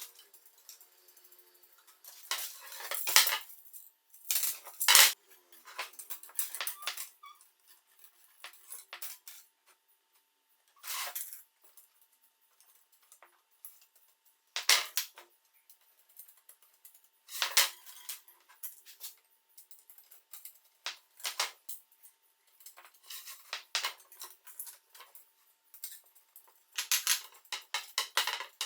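Small metal parts and tools clinking and clattering as they are handled, in irregular bursts of sharp clicks and knocks.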